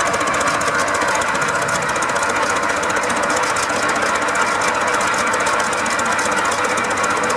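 Old Holt engine running steadily with a rapid, even mechanical clatter of knocks.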